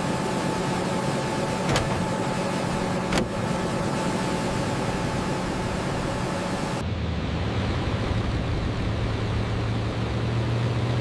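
Douglas DC-6's radial piston engines running steadily, a loud hissing drone with a steady hum under it and two short clicks about two and three seconds in. About seven seconds in the sound changes suddenly to a lower, duller engine hum.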